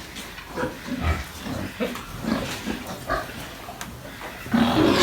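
Pigs in their pens grunting in short, separate grunts. Near the end a much louder, harsher pig call starts.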